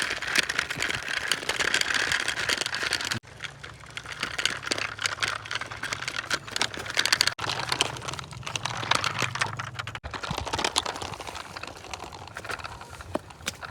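Toy vehicles rattling and clicking over a hard surface: dense, fast, irregular clicking that breaks off abruptly about three, seven and ten seconds in.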